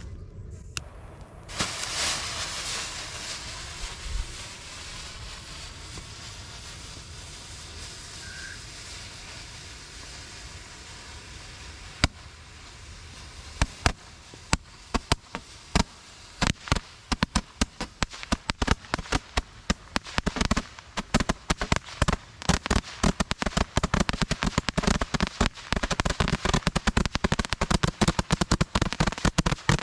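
Consumer fireworks going off: a steady hiss for about ten seconds, then sharp cracks starting about twelve seconds in that come faster and faster until they run together into dense crackling.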